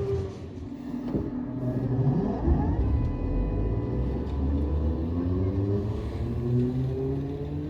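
Narrow-gauge electric train's traction motors whining as it accelerates, several tones rising steadily in pitch over a low rumble.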